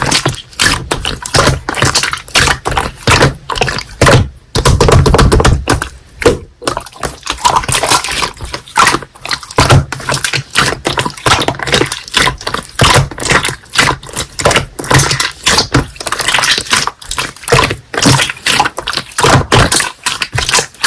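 Slime being squished and poked by hand: a rapid, irregular run of sticky clicks and pops, with a heavier squelch about five seconds in.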